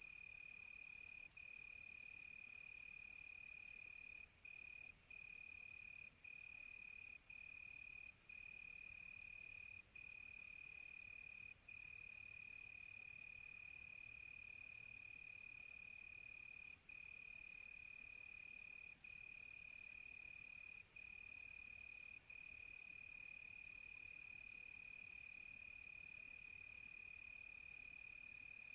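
Crickets trilling: one steady high trill that breaks off for an instant every second or two, with a fainter, higher insect trill coming and going over it.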